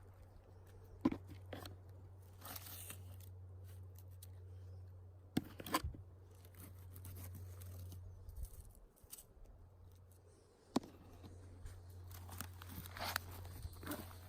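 Scattered crunches and sharp snaps of twigs and forest-floor litter, over a steady low hum that drops out for a couple of seconds past the middle.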